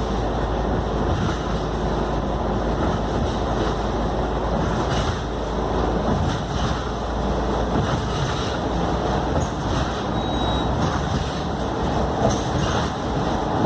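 Scania K310UD double-decker bus running steadily under way, with a constant engine and road rumble and small rattles and clicks throughout.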